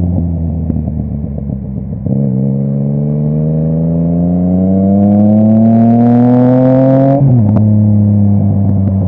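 Yamaha MT-09 three-cylinder engine through a full Akrapovic exhaust, accelerating hard: the pitch climbs steadily for about five seconds, drops sharply about seven seconds in, then settles back to a steady run.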